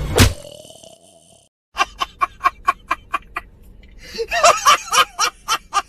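A sharp hit, then a comic sound effect: a rapid, evenly spaced run of short cackling calls, about four or five a second, that gets busier for a moment near the end.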